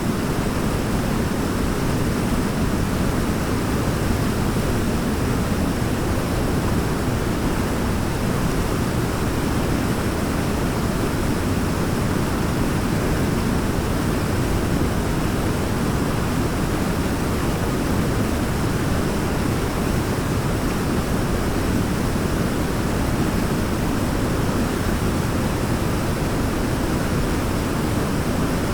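Waterfall rushing in a steady, deep, unbroken roar of water, unchanging throughout.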